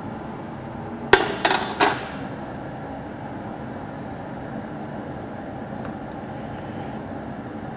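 Three quick metal-on-metal strikes, each with a short ring, about a second in, like a hammer hitting a steel part.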